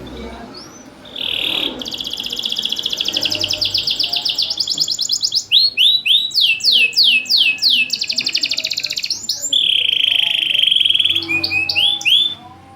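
Domestic canary singing a loud, continuous song: fast rolling trills, then a run of repeated downward-sweeping notes, then another quick trill, stopping abruptly shortly before the end.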